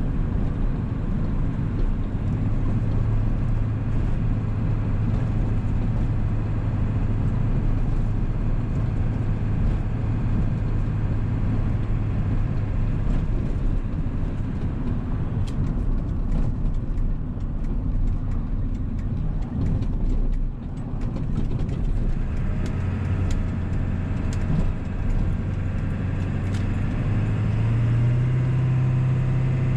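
1997 Ford 7.3 Powerstroke turbo-diesel V8 running as the truck is driven, with road noise. The engine drone holds steady, eases off in the middle, and rises in pitch near the end as it pulls harder.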